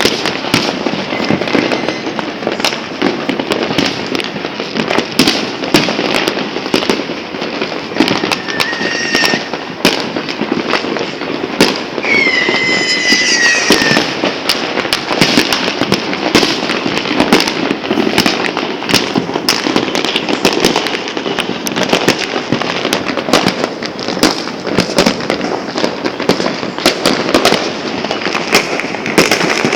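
Many New Year fireworks and firecrackers going off at once: a dense, unbroken crackle of bangs and pops. About halfway through, a few whistling fireworks add high, gliding whistles.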